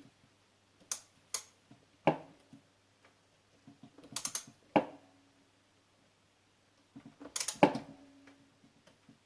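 Scattered metal clinks and knocks of tools and parts being handled against a metal drill press table, a few of them leaving a short ringing tone.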